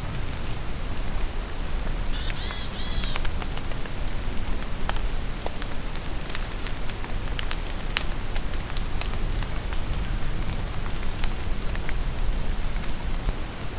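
Steady rain falling in a forest, with many drops landing close by as sharp ticks. About two seconds in, a bird gives one call of about a second of quick repeated notes, and faint short high chirps come and go throughout.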